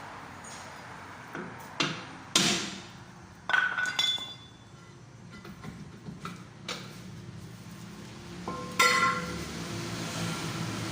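Metal tools striking and clanking on metal parts in a workshop: several sharp knocks, each ringing briefly. The loudest come about two and a half and nine seconds in.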